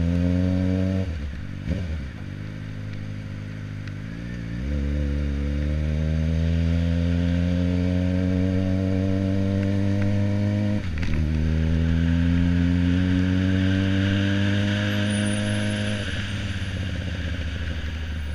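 Suzuki GSX-R600 inline-four engine pulling through the gears: the revs climb, drop about a second in, climb steadily again from about four and a half seconds, dip briefly at an upshift near the middle, and ease off near the end.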